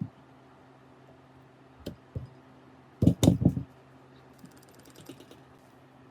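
Several sharp knocks, with a quick loud cluster of them about three seconds in and a few faint clicks after, over a steady low hum.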